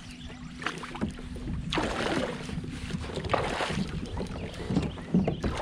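Irregular swishing water noise and short light knocks aboard a fishing kayak.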